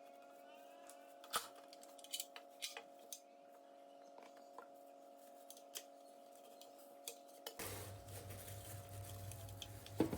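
Faint, scattered light clicks and clinks of small hard objects being handled over a steady low hum. About three-quarters of the way through, a low hum with a hiss switches on and keeps running, with one sharper click just before the end.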